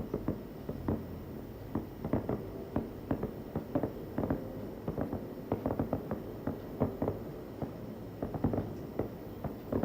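Aerial fireworks bursting in a rapid, irregular barrage, several bangs a second, some louder than others.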